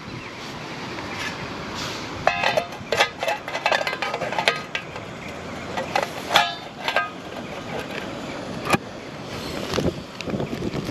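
A series of sharp clinks, clicks and knocks, clustered between about two and seven seconds in with a last single click near nine seconds, over a steady background hiss: small hard items, such as camp cooking gear and a beer can, being handled.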